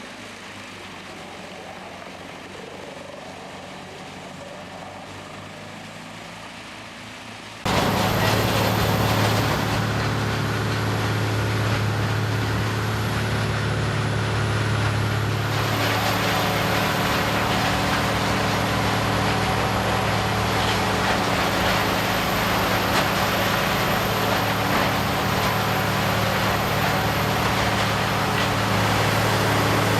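Heavy wood-processing machine running, a steady low engine drone with a thin high whine over it. It starts abruptly and much louder about eight seconds in, over a quieter machine hum.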